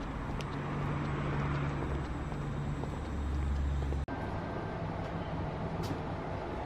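Steady low rumble and hum inside a moving train carriage, with a brief dropout about four seconds in.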